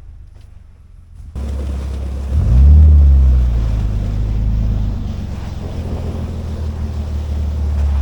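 A 4x4 truck driving on a packed snow road: a low engine rumble under steady rushing wind and road noise. The noise comes in abruptly after a quieter first second, and the engine note rises about two seconds later as it accelerates.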